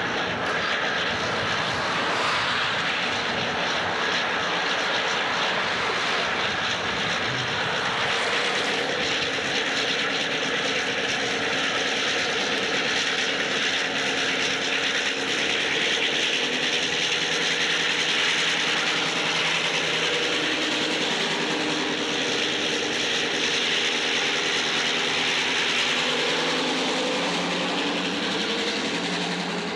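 Rio Grande EMD F9 diesel locomotives with their 16-cylinder engines drone steadily as they haul a passenger train around a curve and pass close by. This is followed by the steady rumble and hiss of the coaches' wheels rolling past on the rails, loudest in the second half.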